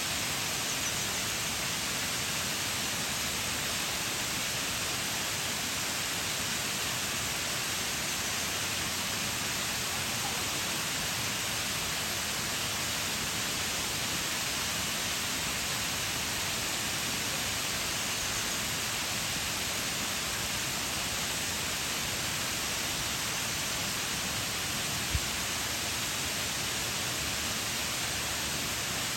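Waterfall pouring steadily: an even, unbroken rush of falling water with a hissy, bright character. A single brief low thump sounds near the end.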